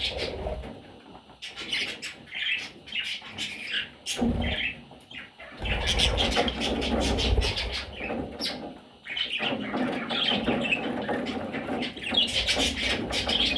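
Parrots chirping and chattering in short, busy calls, with many clicks and stretches of low rumbling noise.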